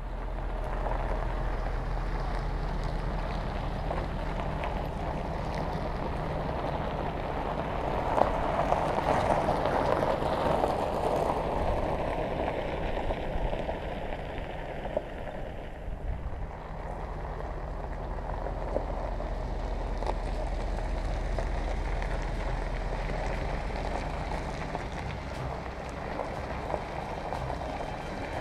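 A steady engine hum under a rushing hiss that swells about eight seconds in and eases off a few seconds later.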